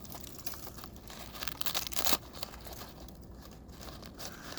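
Footsteps crunching irregularly along the trail, with one sharper crunch about two seconds in.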